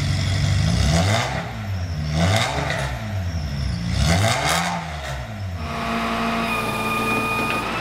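Ferrari 550 Maranello race car's V12 engine revved up and down about three times. About five and a half seconds in, the revving gives way to a steady hum.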